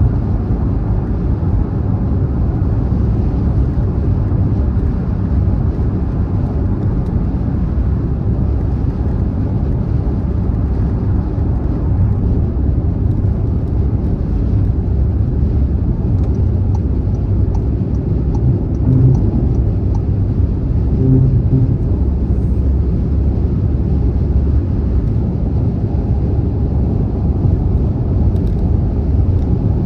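Car travelling at speed on a motorway: a steady, deep road and tyre rumble.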